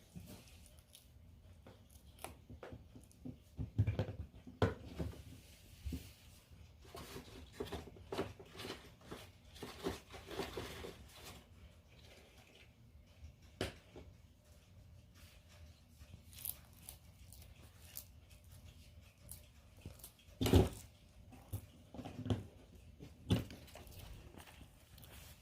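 A bearded dragon crunching and chewing feeder insects, irregular sharp crackling bites as it breaks through their hard shells, the loudest crunch about twenty seconds in.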